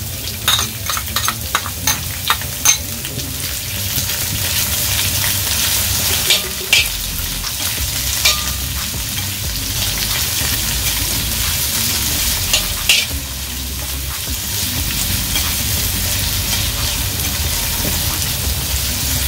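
Chopped onion and browned sliced garlic sizzling in hot oil in a stainless steel pan. A metal spatula stirs and scrapes against the pan, with a run of quick taps in the first few seconds and a few more later.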